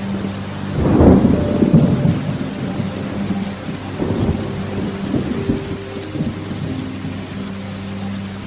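Steady rain with a roll of thunder that breaks about a second in and rumbles on, fading over several seconds.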